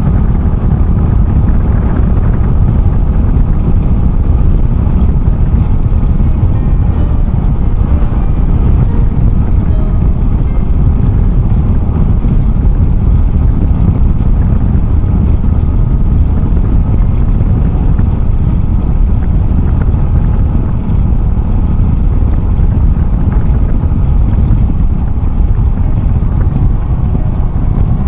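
Honda Cross Cub 110's single-cylinder engine running steadily under way, with heavy wind rumble on the microphone from riding.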